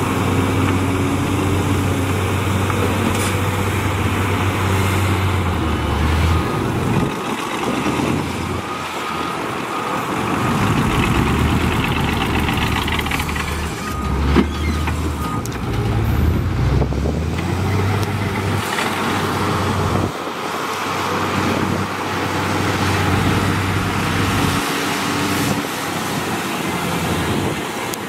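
Heavy diesel engines of earthmoving machines running under load, the engine note rising and falling, with a sharp knock about fourteen seconds in.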